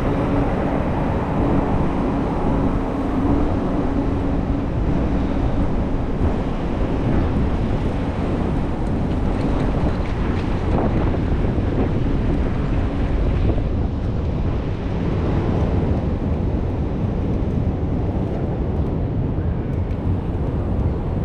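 Steady wind noise rushing over the microphone of a moving bicycle rider, with no clear events standing out.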